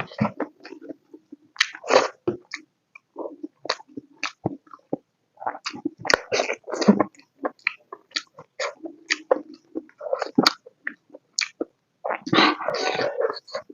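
Close-miked eating: wet chewing and mouth smacks while eating pork curry with potatoes and rice, in many short irregular bursts with a busier stretch near the end.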